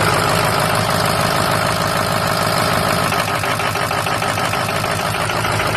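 A 2005 6.0-litre diesel V8 idling steadily with an even diesel clatter, cold and just started.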